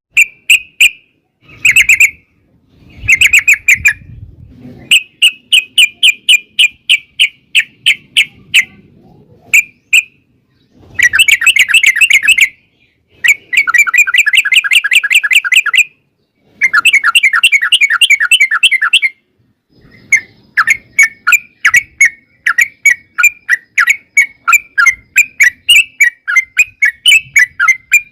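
Yellow-vented bulbul (trucukan) singing: loud, quick chirping notes in short runs, with long rapid rolling trills of two to three seconds each in the middle.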